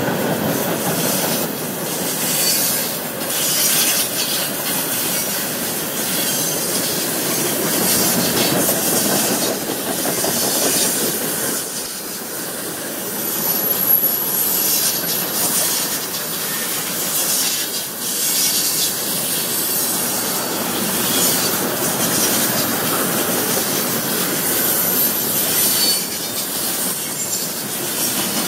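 Freight train cars rolling steadily past at close range: the continuous rumble and rattle of steel wheels on the rails, with recurring bursts of high-pitched wheel noise every second or two.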